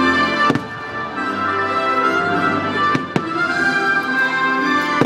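Orchestral show music playing continuously while aerial fireworks burst overhead: a sharp bang about half a second in, two more in quick succession around three seconds, and another near the end.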